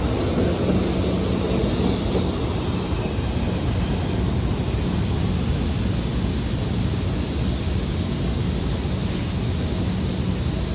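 PATH Kawasaki PA5 train running through the station, a steady rumble with a faint low hum.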